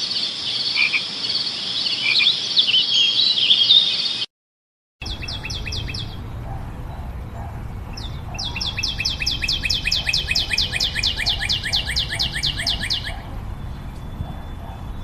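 Birds calling: busy overlapping chirps. After a brief break, a fast run of sharp repeated notes, about five or six a second, comes twice; the second run lasts several seconds.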